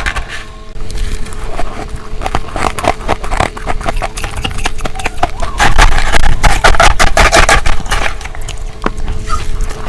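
Humidifier ice being bitten and chewed close to the microphone: rapid, irregular crunching, densest and loudest about halfway through.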